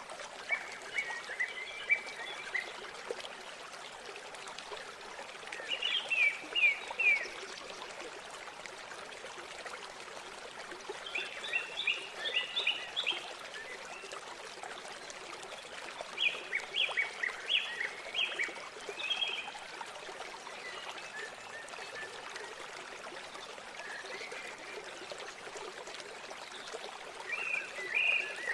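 Steady rush of flowing river water, with a bird calling over it every few seconds in quick runs of short, high notes.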